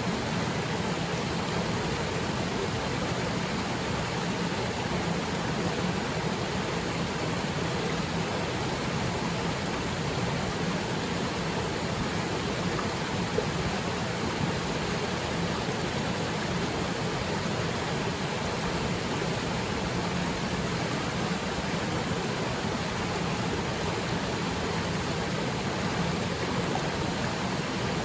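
Haipua'ena Falls waterfall pouring into its pool, a steady, even rush of falling water.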